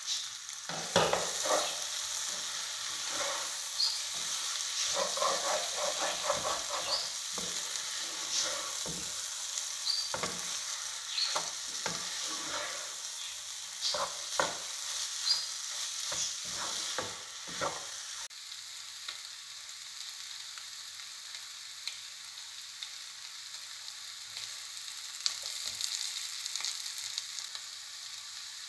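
Chicken gizzards sizzling as they dry-fry in a pan, stirred with a wooden spatula that knocks and scrapes against the pan many times. After about 18 seconds the stirring stops and only a quieter, steady sizzle remains.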